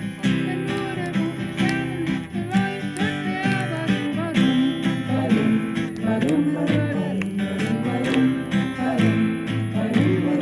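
Acoustic string instrument strummed in a steady rhythm, with voices singing along from about four seconds in.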